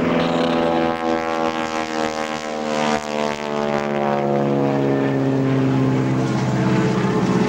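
SNJ (T-6 Texan) radial-engine propeller plane flying an aerobatic pull-up, its engine drone shifting in pitch over the first few seconds and then holding steady.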